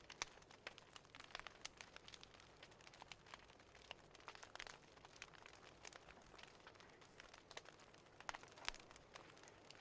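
Wood fire crackling in a fireplace: faint, irregular small pops and snaps over a low hiss.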